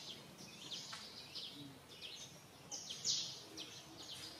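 Birds chirping: many quick, high chirps that sweep downward, repeated irregularly, the loudest a little after three seconds.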